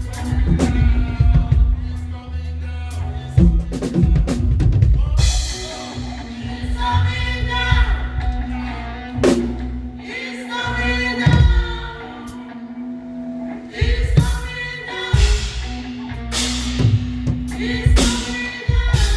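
Live praise band playing: a drum kit with kick and snare hits over sustained bass notes, with singing.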